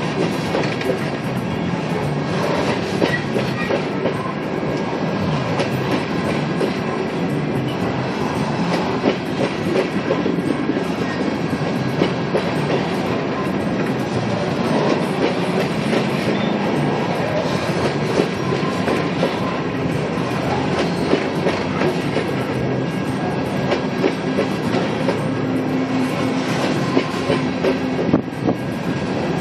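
Loaded coal cars of a freight train rolling past, wheels clicking over the rail joints in a steady clatter, with faint squeals from the wheels.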